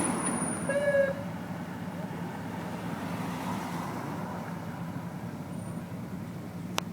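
Steady road and engine noise heard inside a moving car's cabin. A brief pitched sound comes about a second in, and a sharp click near the end.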